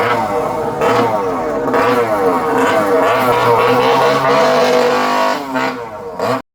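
Several racing motorcycles passing at high revs, their engine notes overlapping and sliding up and down in pitch as they accelerate and change gear. The sound cuts off suddenly near the end.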